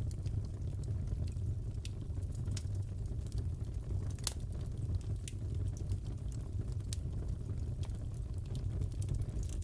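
Fireplace fire crackling: a steady low rumble of burning with scattered sharp pops and snaps, one louder pop near the middle.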